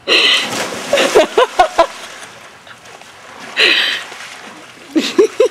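A loud splash of something jumping into water, followed by more splashing and short cries, with a quick run of short cries near the end.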